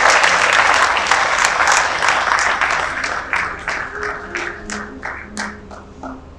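Audience applauding, dense at first, then thinning into scattered separate claps and fading away over the last few seconds.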